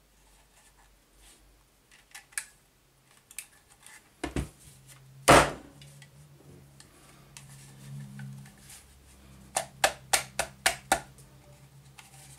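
Tools and metal parts of a miter saw motor being handled during disassembly: a couple of knocks around four and five seconds in, then a quick run of about six sharp clicks or taps near the end, over a faint low hum.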